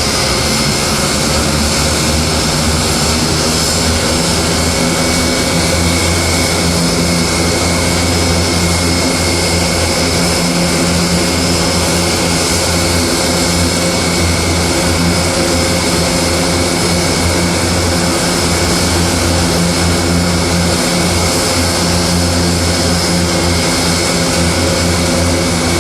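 A propeller airplane's engines running loud and steady, a low drone under a high steady whine, with no change in pitch.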